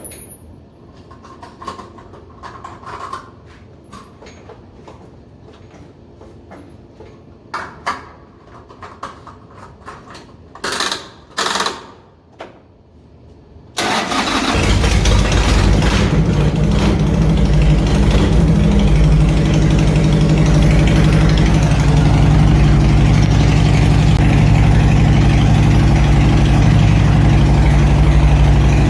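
Scattered small clicks and two short, loud noisy bursts, then about halfway through a Harley-Davidson motorcycle's V-twin engine starts at once and settles into a loud, steady idle.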